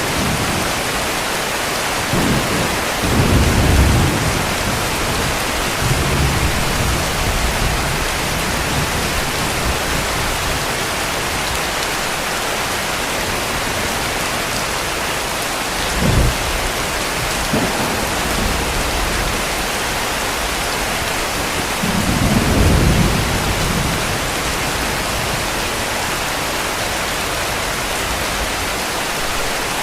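Heavy rain falling steadily, with distant thunder rumbling low several times: a few seconds in, a short sharper clap about halfway, and a longer roll about two-thirds through.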